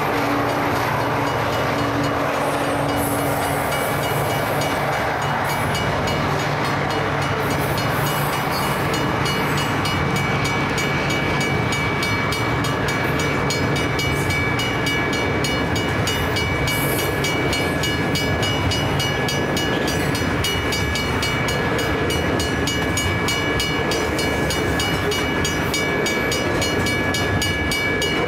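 A loaded coal train's hopper wagons rumbling and clattering over the level crossing, with the crossing's Federal Signal mechanical bell ringing in rapid, even strikes. The low hum of the last diesel locomotive fades out in the first few seconds.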